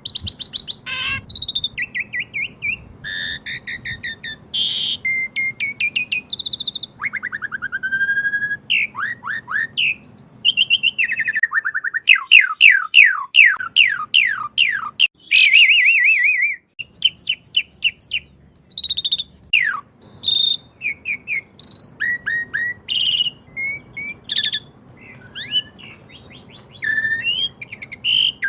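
Pied starling (jalak suren) singing a long, varied song of whistles, chatters and rapid trills, with a quick run of falling notes about halfway through.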